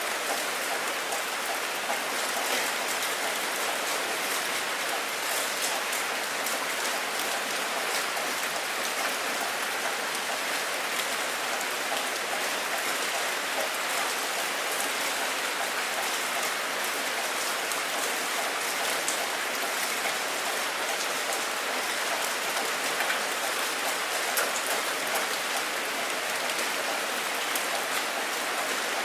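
Steady rain falling on a surface, many fine drop taps over an even hiss.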